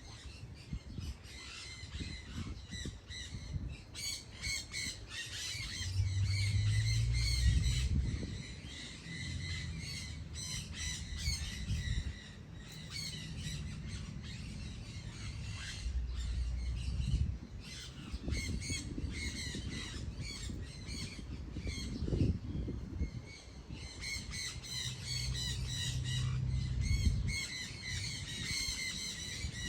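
Birds calling, many short high notes repeated and overlapping throughout, with a low rumble rising and falling underneath at times.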